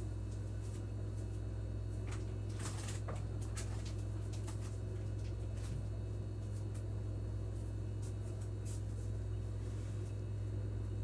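A steady low hum, with faint scattered clicks and ticks over it, most of them in the first half.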